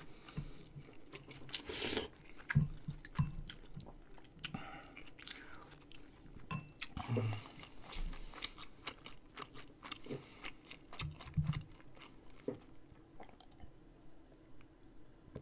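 Close-miked chewing and mouth sounds of a person eating rice-cake dumpling soup, with irregular small clicks, thinning out near the end.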